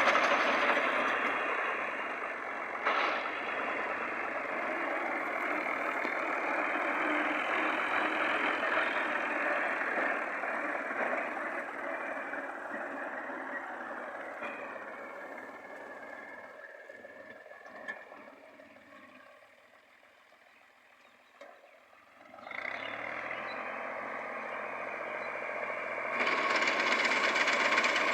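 Tractor running, a dense mechanical noise that fades almost to nothing about twenty seconds in, then comes back and grows louder near the end.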